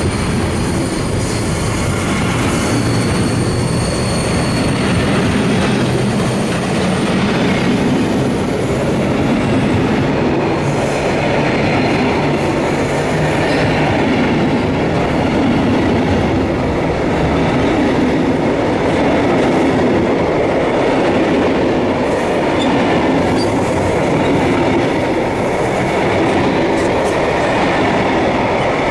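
A freight train of empty Cargowaggon sliding-wall bogie vans rolling past at speed: a steady, loud rumble of wheels on rail, with a faint high-pitched squeal during the first several seconds.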